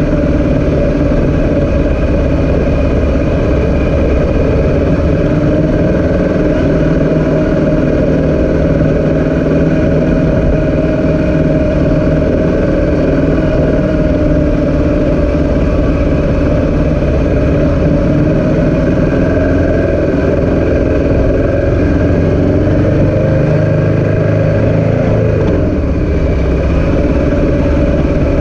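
Motor engines running steadily: a loud, continuous drone whose pitch shifts only slightly.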